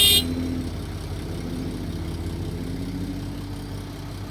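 Heavy diesel engine running at a steady idle, a low even rumble.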